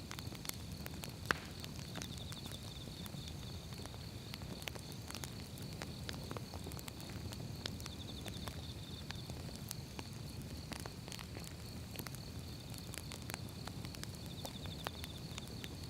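Firewood burning, crackling with irregular sharp pops over a low steady rumble of the flames, one louder pop about a second in.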